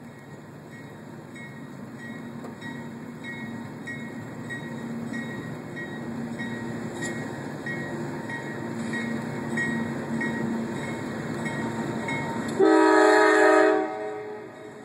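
CSX coal train's diesel locomotives approaching, their engine rumble growing steadily louder. Near the end the lead locomotive gives one blast of its air horn, a chord of several tones lasting about a second and a half, which cuts off sharply.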